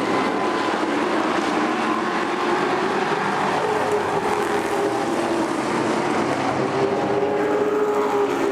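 Several race truck engines running together at speed, a steady blend of engine notes wavering up and down in pitch.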